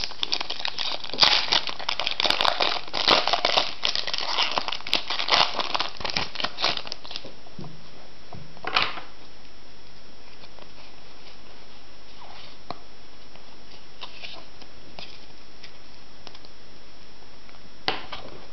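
Foil wrapper of a Pokémon trading-card booster pack being torn open and crinkled for about seven seconds. After that it goes much quieter, with one brief rustle near the middle and another near the end.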